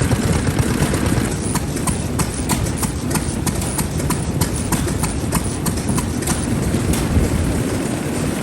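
Vintage stationary engine running with a steady low rumble. From about a second in it gives a light clicking roughly three times a second.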